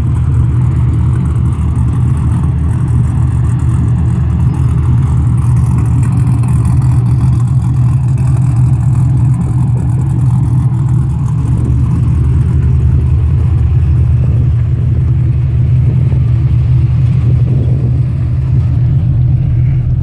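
V8-swapped Mazda RX-7 idling steadily, a low even engine note, after a cold start; the base idle is set a little low.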